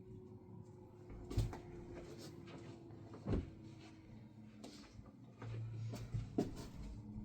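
A few sharp knocks and thumps of things being handled, about a second and a half, three and a half, and six and a half seconds in, with lighter taps between them over a faint steady hum.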